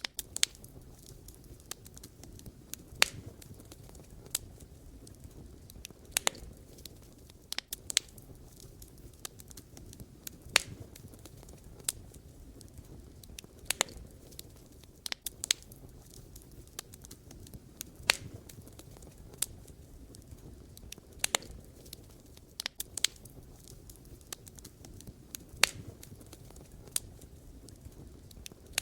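Wood fire burning, with irregular sharp crackles and pops from the burning logs, one to a few a second, over a low steady rumble of the flames.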